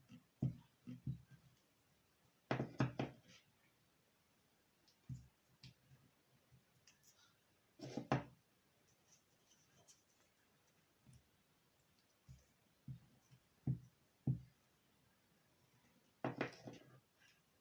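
Faint tabletop paper-craft handling: scattered light knocks and taps, with three short clusters of rapid crisp clicks about three, eight and sixteen seconds in.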